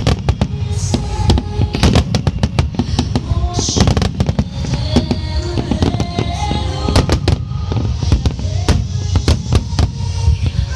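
Large fireworks display: many bangs and crackles in quick succession over a continuous low rumble, with music playing along.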